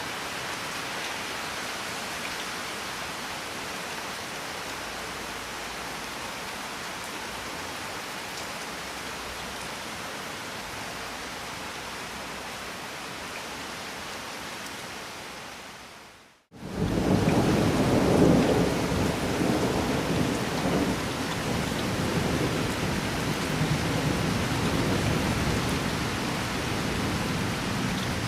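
Steady rain falling. About sixteen seconds in it fades out to a moment of silence, then comes back louder with a deep rolling rumble of thunder under the rain.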